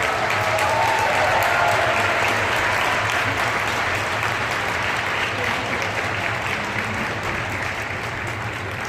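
Arena crowd applauding steadily, easing off slightly toward the end.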